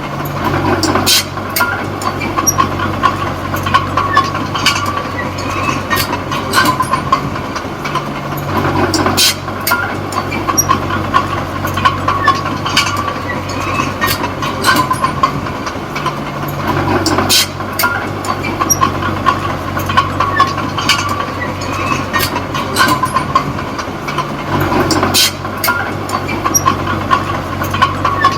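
Small crawler bulldozer's diesel engine running under changing load, its note shifting about every eight seconds, with frequent sharp metal clanks from the tracks and blade.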